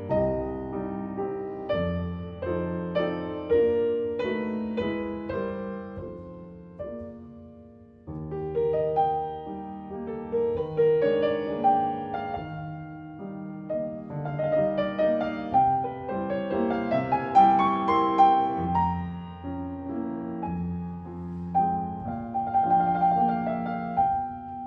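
Classical solo piano music playing, a phrase fading away about a third of the way in before a new phrase begins.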